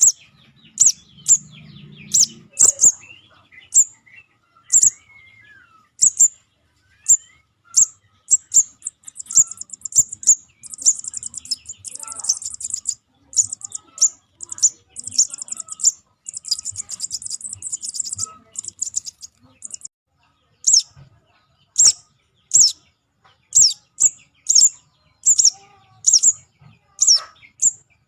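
Juvenile sogon's begging call: short, high chirps repeated about once or twice a second, breaking into a fast, dense chatter from about nine to nineteen seconds in. It is played as a lure call to draw wild birds.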